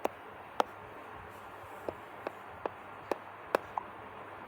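A series of short, sharp clicks or taps, about eight of them at uneven intervals, over quiet room tone.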